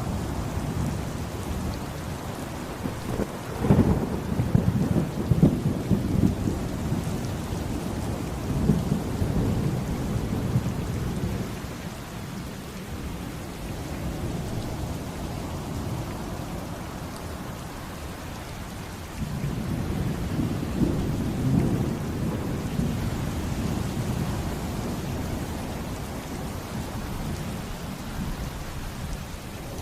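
Thunderstorm: steady heavy rain with rolling thunder. A sharp thunderclap breaks about four seconds in and rumbles on for several seconds, and a second low rumble swells up about two-thirds of the way through.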